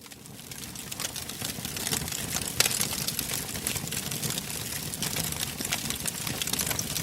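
Wood fire burning in a fireplace, crackling and popping over a low rush of flame. It swells up over the first couple of seconds, and one sharp pop stands out about two and a half seconds in.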